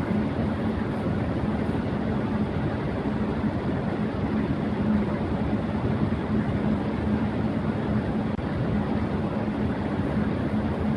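Electric fan running at high speed: a steady rush of air with a constant low hum.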